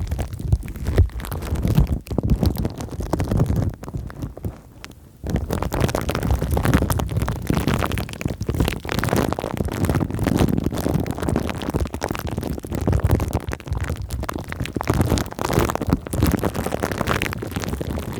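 Close-miked ASMR crinkling and squishing of plastic film and foam: a dense, crackly stream of fine clicks. It eases off briefly about four seconds in, then resumes.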